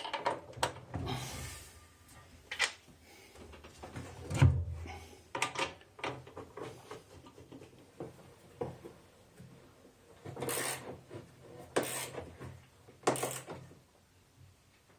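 Hand work on a disassembled washing machine: irregular knocks, clicks and rubbing of parts, with a heavier thump about a third of the way in and three sharp knocks a little over a second apart near the end.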